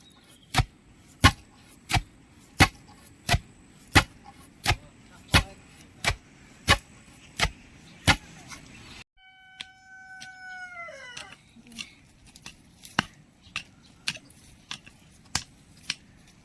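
Repeated sharp blows of a hand tool, about three every two seconds for some eight seconds. After a break comes a brief call that falls in pitch, then a few more, less regular blows.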